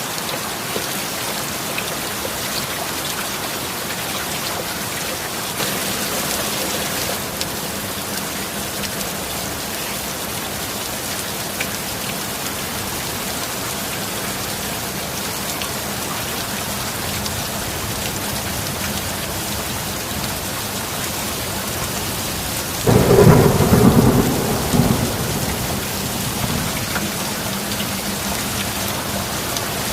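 Steady rain, with a single sudden loud clap of thunder about 23 seconds in that rumbles for two to three seconds before dying back under the rain.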